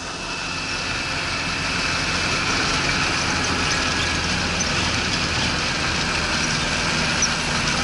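Old GAZ-69 off-road vehicle driving, its engine running steadily under road and cabin noise.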